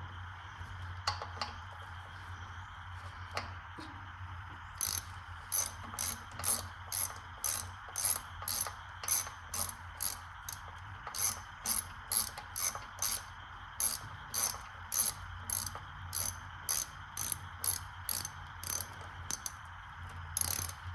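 Hand ratchet wrench worked back and forth on a bolt of the Craftsman V-twin's carburetor, its pawl clicking in short bursts about twice a second from about five seconds in, after a few scattered clicks, over a steady low hum.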